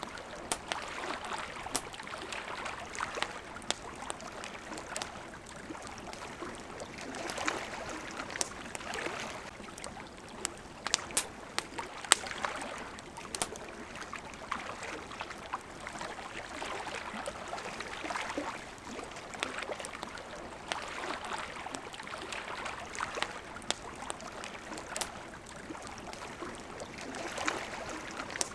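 Water lapping at the shore in gentle swells every few seconds, with the sharp pops and crackles of a wood campfire scattered through it. A few louder pops come about halfway through.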